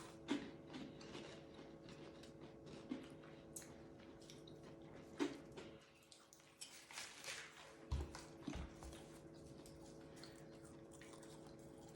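Quiet crunching and chewing of Cheez-It crackers and crunchy fries, with scattered short crackles and a low thump about two-thirds of the way through, over a faint steady hum.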